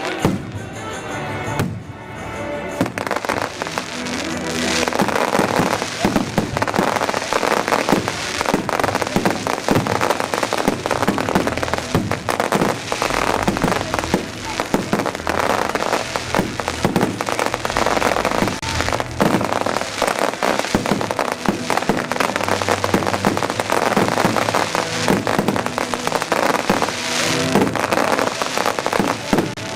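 Fireworks display: a dense barrage of rapid bangs and crackling that thickens about three seconds in and keeps going, with music playing underneath.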